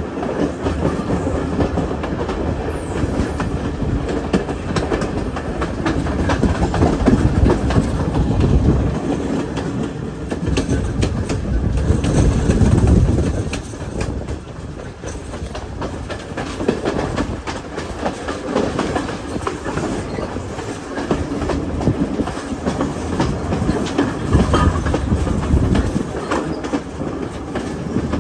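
Passenger train running along the track, its wheels clattering over the rails with a continuous rumble and many quick clicks. The rumble swells louder twice, around the middle.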